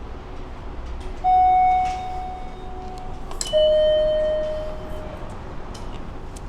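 Two-note electronic ding-dong chime over a low steady hum. A higher note sounds about a second in and a lower one about two seconds later, each ringing out and fading. It is the kind of railway chime that comes before a station or train announcement.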